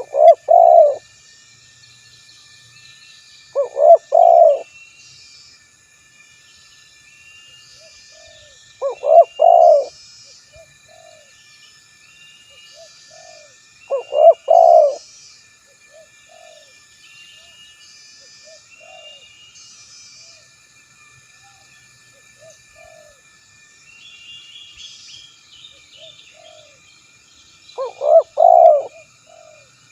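Spotted dove (tekukur) cooing: five loud coo phrases several seconds apart, with fainter single coo notes between them. Faint high chirps of small birds sound behind.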